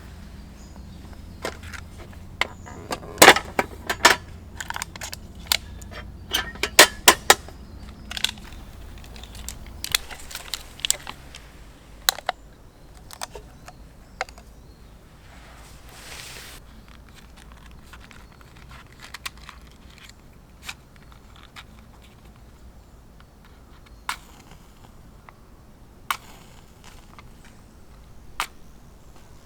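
Wood campfire crackling and popping: a dense run of sharp cracks over the first several seconds, then scattered single pops.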